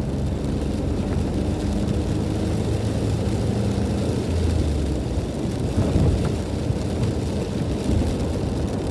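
Steady low rumble of a car driving on a wet road, heard from inside the cabin, with a brief knock about six seconds in.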